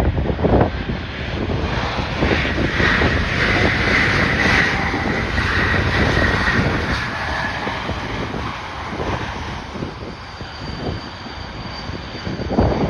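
Aircraft engines passing, with a steady whine that comes in a couple of seconds in and fades after several seconds. Heavy wind buffets the microphone throughout.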